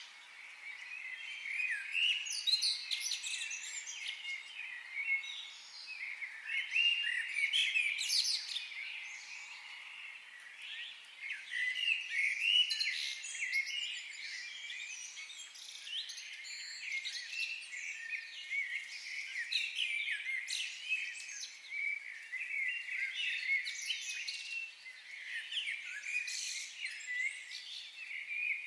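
Many songbirds singing and chirping at once in a forest: a continuous, overlapping chorus of short, high warbles and chirps.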